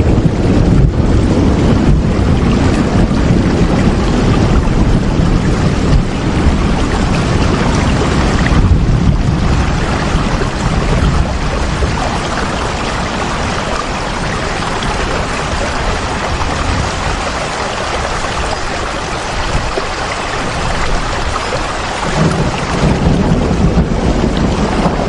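Steady rain, an even hiss, with a deep low rumble that is strong at first, fades away by about halfway and swells again near the end.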